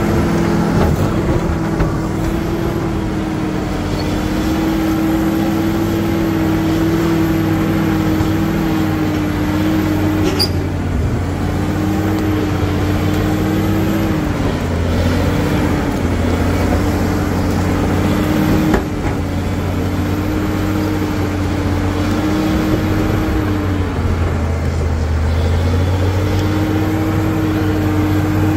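Caterpillar D7G crawler bulldozer's diesel engine working under load, its pitch sagging and recovering several times as the machine pushes. A faint high wavering whine runs above it, and two sharp knocks come about a third and two-thirds of the way in.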